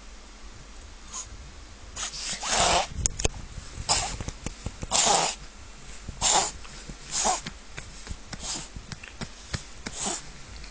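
Miniature pinscher reverse sneezing: a run of rough, forceful inhalations through the nose about once a second, starting about two seconds in, strongest at first and weaker toward the end.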